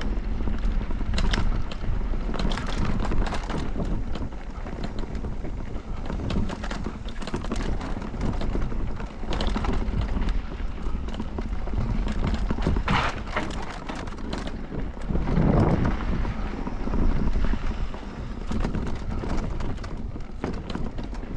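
Electric mountain bike riding down a dirt bike-park trail: wind buffeting the microphone over a low rumble of tyres on the ground, with frequent clattering knocks as the bike goes over bumps.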